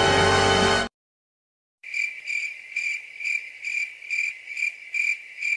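A music clip cuts off about a second in; after a short silence a cricket chirps steadily, about two high chirps a second: the stock 'crickets' sound effect used as an awkward-silence gag.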